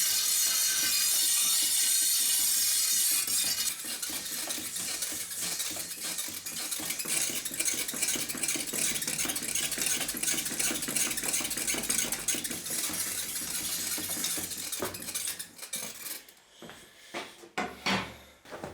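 A bread cutter's metal blade being ground on a stone wheel: continuous rasping of metal on stone, loudest in the first few seconds, breaking into short separate scrapes near the end.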